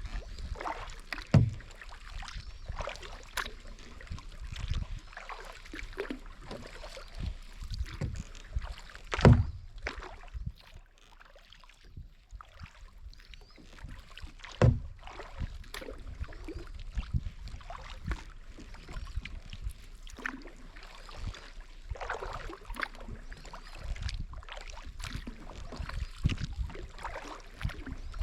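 Kayak paddling: the paddle blades dip and splash in an uneven rhythm, with a few sharp knocks, the loudest about nine seconds in, and a short lull in the middle.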